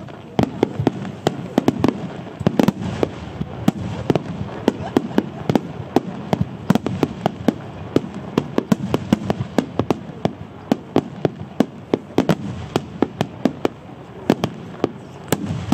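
Japanese starmine fireworks barrage: aerial shells launching and bursting in rapid succession, sharp bangs several a second over a low rolling rumble.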